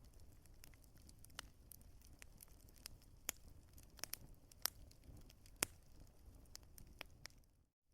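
Wood fire crackling, with irregular sharp pops and snaps over a soft low rumble. It cuts out briefly just before the end.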